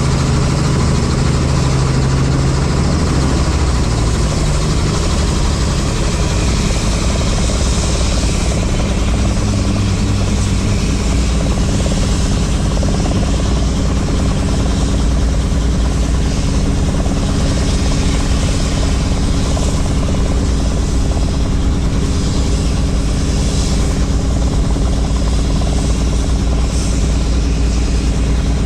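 Helicopter in flight heard from aboard with the doors off: a steady, loud low rotor and engine drone under a constant rush of wind noise.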